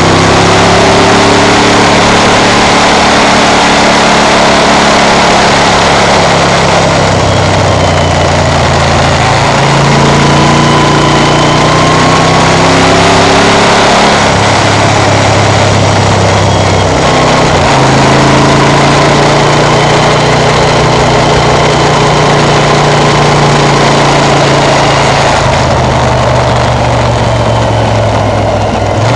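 Moto Guzzi 1100 Sport's air-cooled transverse V-twin running under way, heard from the rider's seat over heavy wind rush. Its note steps up and down a few times as the throttle and gears change.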